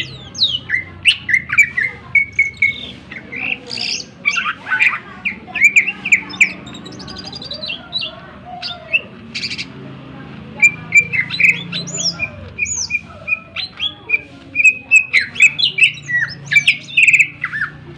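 Cucak ijo (green leafbird) singing a fast, varied stream of sharp chirps, short whistles and rapid trills, with a quieter stretch near the middle.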